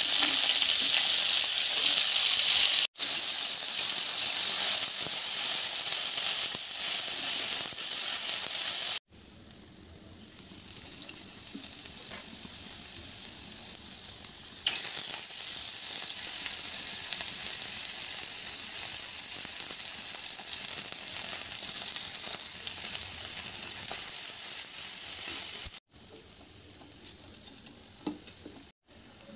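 Chopped carrot, green beans, peas and potato, later with split dal and onion, frying in hot oil in a pan: a steady hissing sizzle. It breaks off abruptly several times, and is quieter for a few seconds after about 9 s and near the end.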